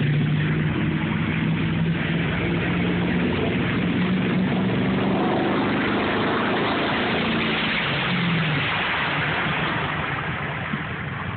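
Truck engine running hard under load, its pitch shifting slowly up and down, with a steady rushing noise underneath.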